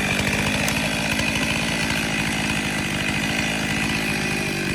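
Chainsaw running at a steady, constant pitch while cutting a tree.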